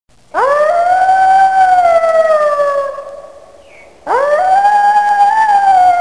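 Wolf howling: two long howls, each swooping up at the start and then held, sliding slowly lower in pitch. The first fades out about three seconds in, and the second begins about a second later.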